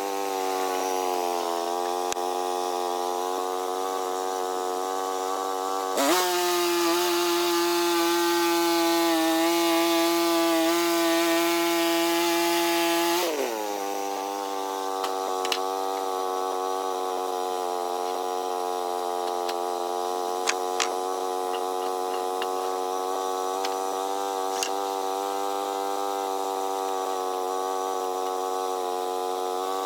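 Small portable sawmill's engine running steadily. Its pitch rises about six seconds in and drops back about seven seconds later, with a few light clicks after that.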